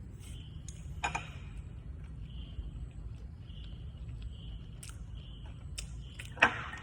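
Close-miked eating sounds: a handful of sharp clicks, the loudest just before the end, over a low steady hum.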